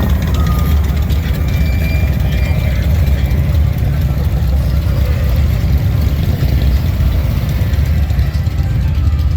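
Harley-Davidson motorcycle engine running steadily, a loud, even low rumble.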